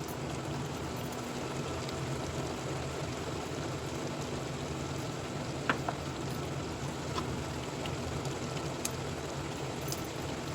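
Chicken and ginger-garlic paste sizzling in hot oil in a kadhai, a steady frying hiss with a few light clicks about six and seven seconds in.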